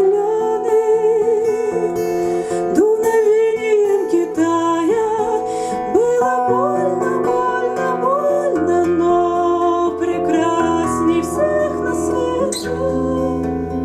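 Acoustic guitar accompaniment, plucked and strummed, under a singing voice holding long notes with vibrato.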